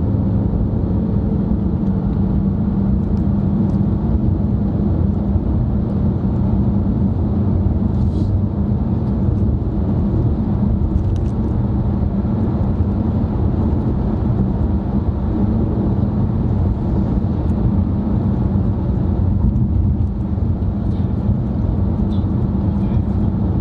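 Steady road and engine noise of a car driving, heard from inside the cabin: an even low rumble that does not rise or fall.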